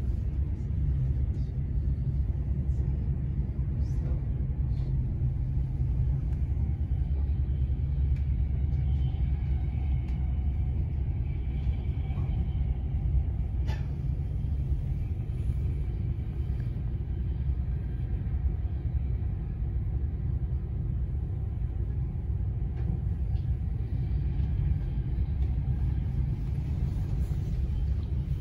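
Steady low rumble of a moving passenger train, heard from inside the carriage as it runs along the track, with one short click about halfway through.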